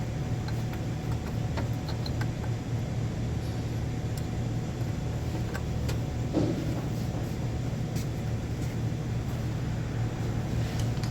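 A steady low mechanical hum, with a few faint clicks and taps over it and a slightly louder knock about six seconds in.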